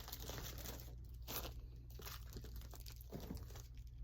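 Packaging crinkling and rustling as small knitting supplies are handled, with a few short crunches.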